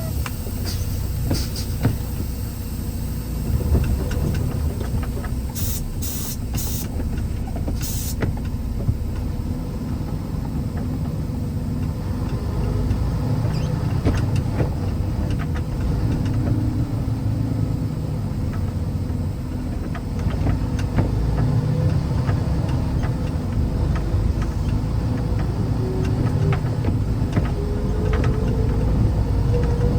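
Vehicle driving with a steady low engine and road rumble. A few brief clicks come in the first third, and a faint tone rises in pitch near the end.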